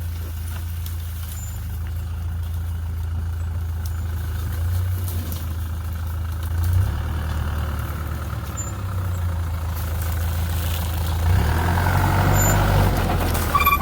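Mitsubishi Canter 4x4 truck engine running steadily at low speed, a low drone that grows somewhat louder near the end.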